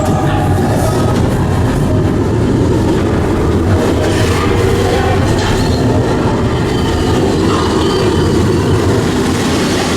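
Steady low rumble and rattle of a moving vehicle.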